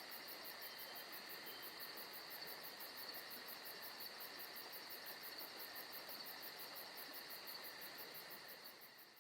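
Insects chirping in a steady chorus, with a fast, even high pulsing over a faint hiss, fading out near the end.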